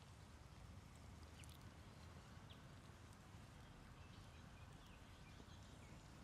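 Near silence: faint outdoor room tone, a low steady rumble with a few faint short high chirps scattered through it.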